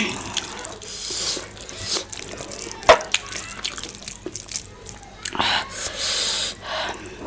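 Close-miked wet eating sounds: irregular chewing, smacking and slurping, with one sharp click about three seconds in.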